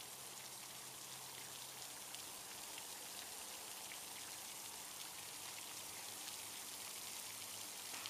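Water sprinkler spraying, a faint steady pattering hiss like light rain.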